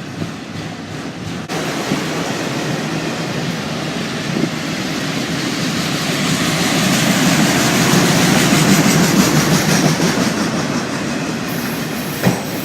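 A train rolling past, its steel wheels rumbling over the rails. It grows louder to a peak about two-thirds of the way through, then eases slightly, with one sharp click near the end.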